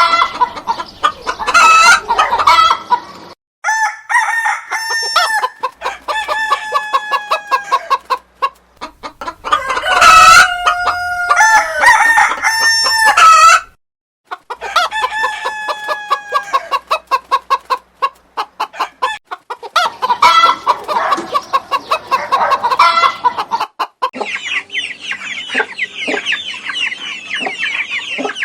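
Chickens clucking and roosters crowing, in several short clips cut together, with two long crows in the first half. Near the end it changes to a rapid run of high bird chirping.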